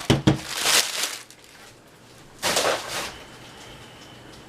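Packaging being handled during an unboxing: a knock, then two brief rustles of wrapping.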